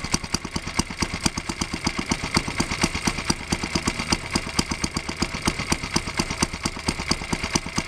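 Small petrol engine driving the generator of a 5-inch gauge petrol-electric locomotive, running steadily with a rapid, even beat just after being started. It runs without load, because the traction motor is not yet connected.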